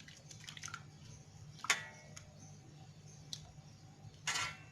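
A few sharp clicks of cookware and utensils being handled: one clear click about two seconds in, a faint tick, and a short louder knock near the end, over a low steady hum.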